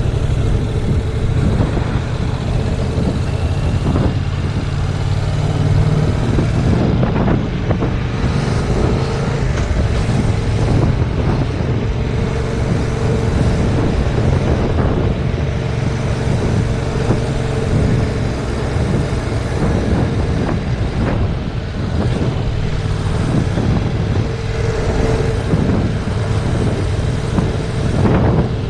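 Heavy wind buffeting on a GoPro microphone at riding speed, over the steady running of a 2019 Yamaha MT-07's 689 cc parallel-twin engine under way.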